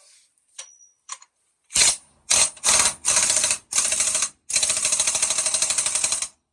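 Impact wrench hammering in several short bursts, then one longer burst of nearly two seconds that stops sharply. A couple of faint clicks come before it.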